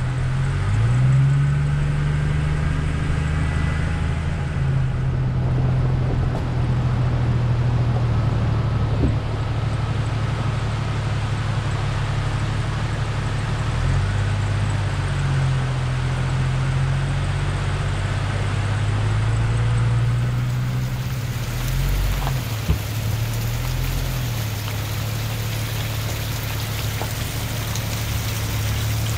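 Jeep Cherokee XJ driving on a back road: a steady engine drone whose pitch rises and falls several times with the throttle.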